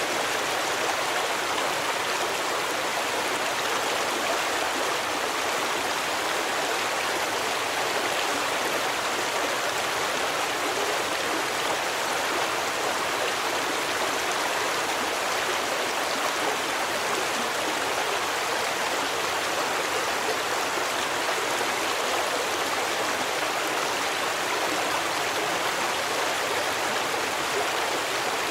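A stream of water rushing and splashing over rocks in an even, unbroken flow.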